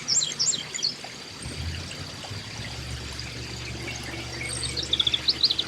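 Small backyard birds chirping in quick, high notes at the start and again near the end, over a steady trickling hiss.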